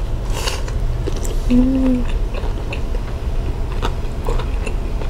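Two people biting into and chewing longganisa sausages close to the microphone, with short wet mouth clicks. A brief "mmm" hum of enjoyment comes about one and a half seconds in. A steady low hum runs underneath.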